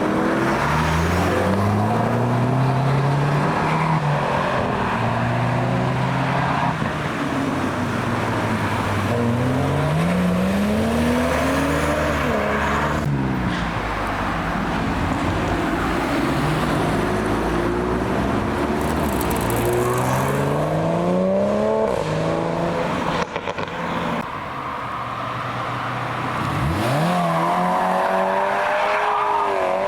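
Performance car engines accelerating hard one after another, each pitch climbing and then dropping at the upshifts as the cars pass. A fresh run-up starts low near the end.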